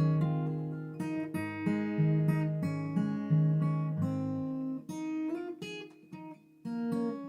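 Acoustic guitar playing picked chords and single notes that ring on, several a second; the playing stops briefly a little after six seconds, then one more chord sounds.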